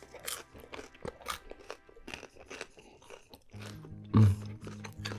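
Close-up crunching and chewing of homemade pizza crust, a run of short crackly bites. A short, loud, low thump comes about four seconds in, with background music underneath.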